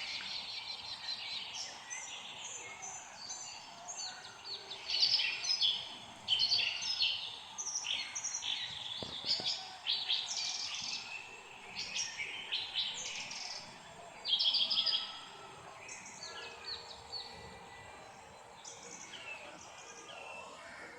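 Several songbirds chirping and singing, with many short rapid calls and trills overlapping. They are busiest in the middle and thin out toward the end.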